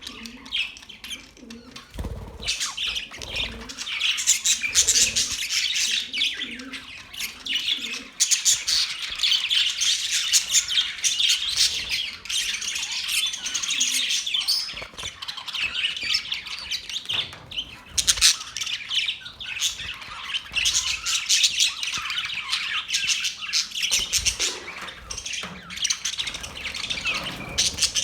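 A group of pet Australian parrots chattering and squawking continuously in fast, overlapping high calls, with a few soft knocks.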